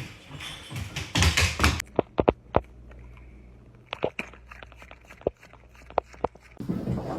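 A scatter of sharp taps and knocks, a few at a time, after a brief rustle.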